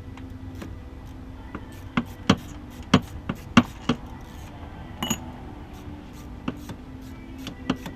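Irregular sharp metallic clinks and knocks of tools and parts being handled on a torn-down engine, about a dozen, clustered loudest around two to four seconds in, over a low steady hum.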